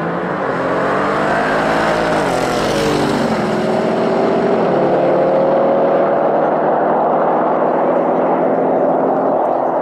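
Two Audi cars accelerating hard side by side off a drag-strip start. Their engine notes rise, drop together at about two to three seconds in as they change up a gear, then climb steadily again as they pull away.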